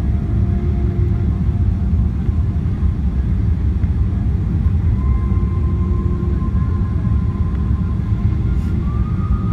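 Steady low rumble of a Boeing 777 heard from inside the passenger cabin during the landing, with faint steady tones of the engines above it.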